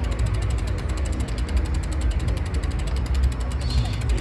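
Bicycle rear freewheel ticking rapidly and evenly as the bike coasts, its pawls clicking over the ratchet, with a low rumble underneath.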